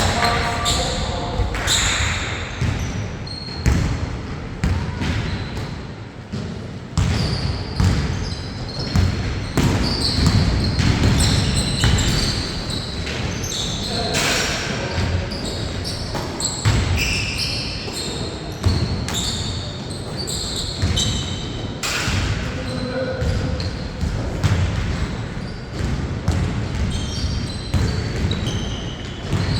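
Basketball game play: a ball bouncing and dribbling on the court in many sharp thuds, mixed with short high squeaks.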